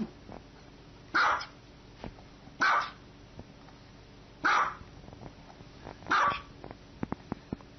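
A small white dog barking four times, single sharp barks spaced about a second and a half apart, with a few faint clicks between the last two.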